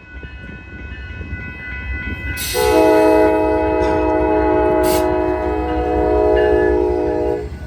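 Amtrak P42DC diesel locomotive sounding its multi-note air horn in one long chord of about five seconds, starting a couple of seconds in and cutting off near the end. Under it runs the steady low rumble of the passing triple-headed diesel locomotives.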